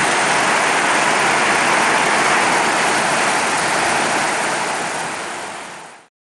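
Heavy rain pouring down, heard from under a corrugated carport roof: a dense, steady rush that fades near the end and cuts off about six seconds in.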